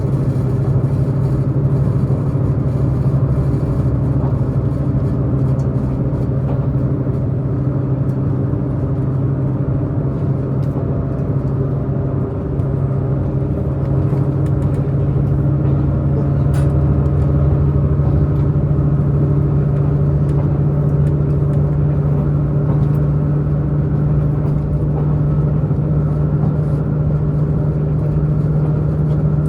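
Diesel engine of a diesel multiple-unit express train running under power at speed, heard from inside the passenger car as a steady drone over wheel-on-rail rumble. Its pitch climbs slowly through the second half as the engine works harder.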